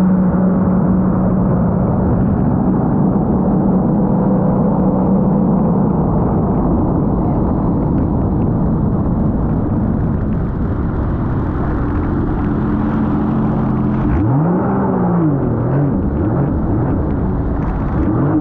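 Sea-Doo GTR 230 personal watercraft's supercharged three-cylinder engine running at steady speed under way, with wind and water noise. About 14 seconds in the revs drop sharply and climb back as the throttle is let off and opened again.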